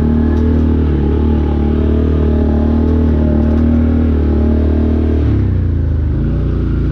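Off-road vehicle's engine running steadily at a constant pitch, then easing off and dropping in pitch about five seconds in.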